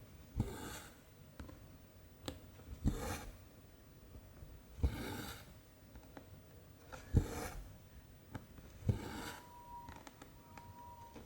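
Needle stitching through 14-count cross-stitch fabric: a sharp tick as it pierces the canvas, then a short swish of cotton thread pulled through, about every two seconds, five times. A faint thin whine sounds briefly near the end.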